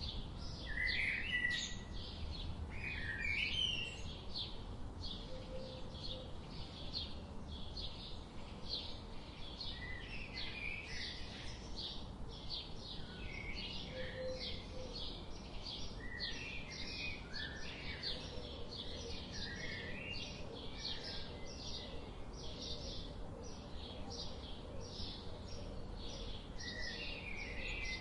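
Birds chirping: a steady, rhythmic run of short high chirps about twice a second, with other birds' lower chirps breaking in now and then.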